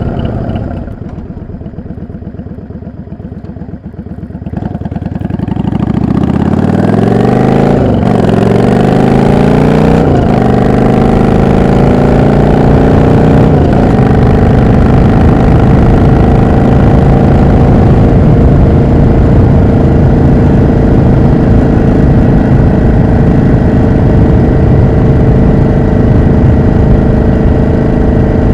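Yamaha XVS650 V-twin motorcycle engine running quietly at low revs, then accelerating from about five seconds in. Its pitch climbs and drops three times as it shifts up through the gears, then it holds steady at cruising speed.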